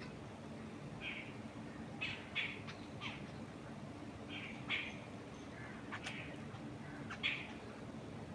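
Wild birds chirping: short calls come every second or so, several of them louder, over a steady low rush of wind.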